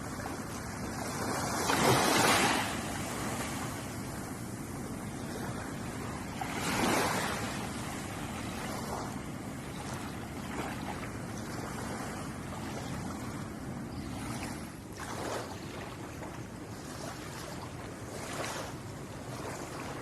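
Ocean waves washing onto a shore over a steady hiss of surf, with two louder waves breaking about two seconds and seven seconds in and smaller ones later.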